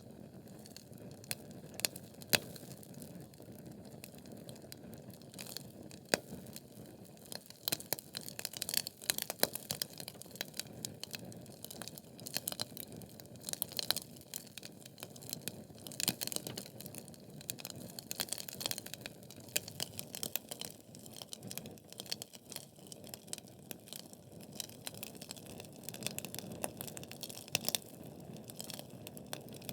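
Wood fire burning in a fireplace: logs crackling and popping in irregular sharp snaps over a steady low rumble and hiss of the flames.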